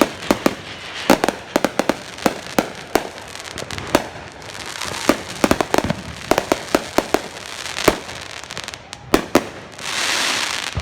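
Fireworks display going off: a rapid, irregular string of sharp bangs over a continuous crackle, with a louder hissing swell near the end.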